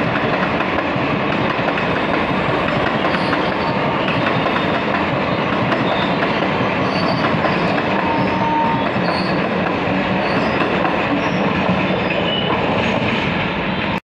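Passenger train coaches passing close by at speed: a loud, steady rumble and clatter of steel wheels on the rails.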